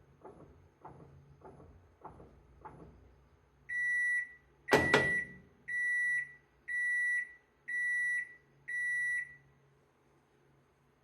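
Washing machine sounding its end-of-cycle signal: six high beeps, each about half a second long, about one a second, after a few seconds of faint regular ticking. Two sharp clicks come about five seconds in, over the second beep.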